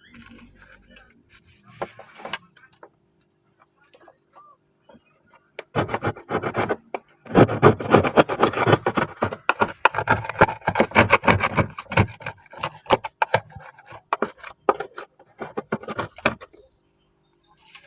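Rapid back-and-forth scrubbing strokes with a stiff brush, starting about six seconds in and running for about ten seconds, densest in the middle, after a few scattered light knocks.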